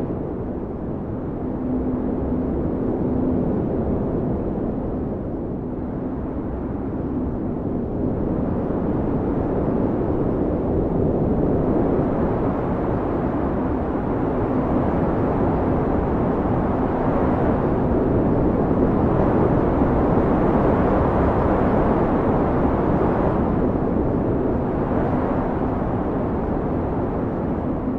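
Blizzard wind blowing hard, a low rushing noise that swells and eases in slow gusts, strongest in the second half, with a faint steady howling tone under it at times.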